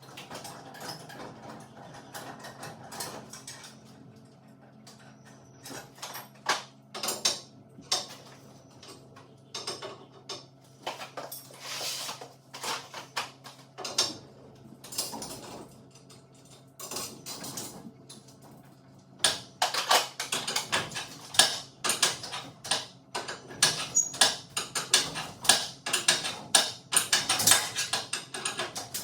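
Irregular metallic clicks and knocks from hand work on garage door hardware, over a steady low hum. About two-thirds of the way through, the clicks turn rapid and dense.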